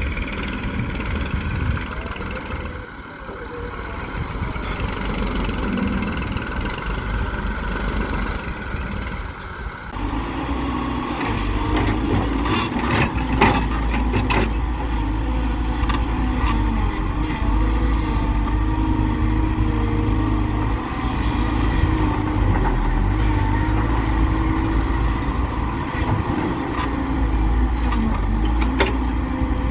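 Heavy diesel engines of an excavator and a tractor running steadily. About a third of the way in, the sound changes abruptly to a louder, fuller engine note, with a few short clanks soon after.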